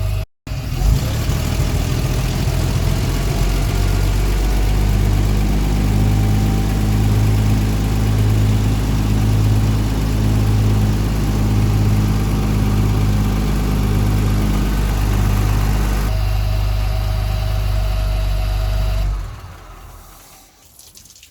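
Hall-Scott 1091 cubic-inch inline-six gasoline engine of a 1958 Mack B-21 fire truck idling steadily, with a slow, even pulse in its beat, then shutting off about nineteen seconds in and dying away.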